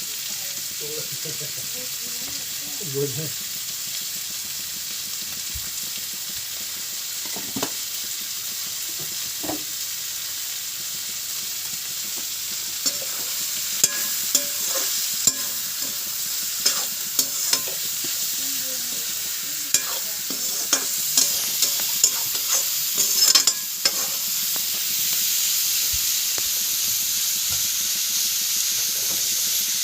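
Chicken pieces frying with spices in hot oil in a pot, sizzling steadily, while a spoon stirs them and knocks and scrapes against the pot, most often in the second half.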